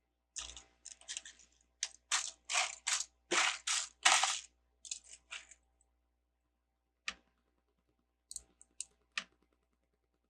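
Plastic Lego pieces clattering and clicking under the hands: a quick run of short rattles over the first five seconds or so, then a few separate clicks.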